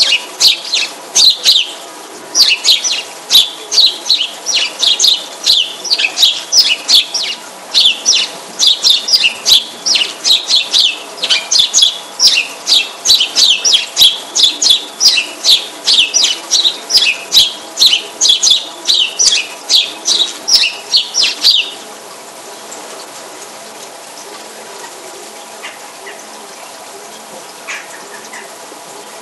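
A bird chirping over and over, about two or three short, sharp chirps a second, stopping suddenly about three-quarters of the way through. A faint steady hum lies underneath.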